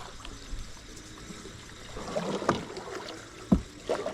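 Small aluminium john boat being paddled up a creek cove: soft water swishing with a few short knocks, the sharpest about three and a half seconds in.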